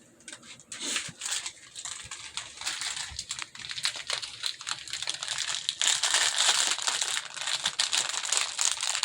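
Gift wrapping being crinkled and rustled in quick, irregular crackles, busiest and loudest from about five seconds in.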